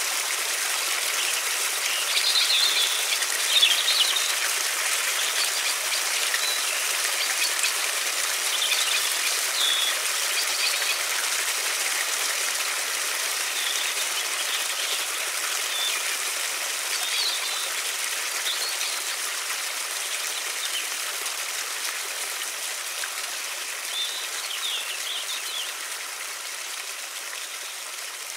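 River water rushing steadily, with small birds chirping in short bursts several times. The whole sound slowly grows quieter toward the end.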